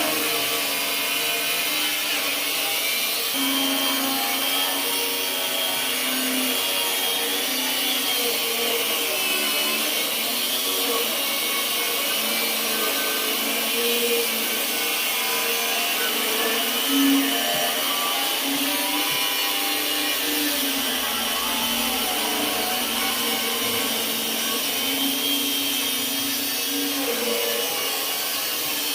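Electric angle grinder running continuously, its motor whine wavering up and down in pitch.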